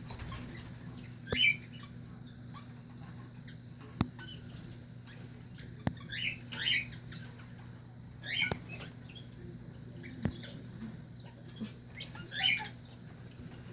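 Pet parakeet giving soft, short chirps every few seconds, about five in all, with a few sharp clicks between them over a steady low hum.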